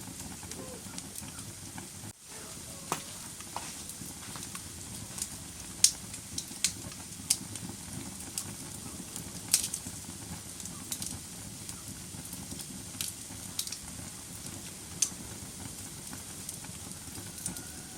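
Wood fire crackling in a fireplace: a steady soft hiss with irregular sharp pops, the loudest about six and nine and a half seconds in. The sound drops out for a moment about two seconds in.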